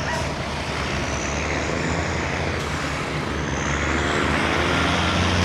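Diesel semi-truck engine running close by, a steady deep exhaust drone that grows a little louder near the end.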